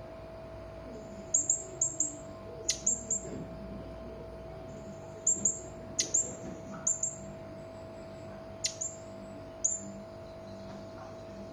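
Blue-crowned hanging parrot (serindit) giving about fifteen very high-pitched, short, sharp calls in quick groups of two or three, several sweeping steeply downward, over a steady low hum.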